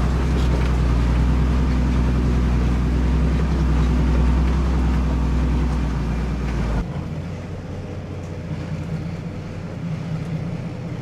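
Dump truck's engine running steadily with a deep, even hum. About seven seconds in, the sound drops suddenly to a quieter, thinner running note.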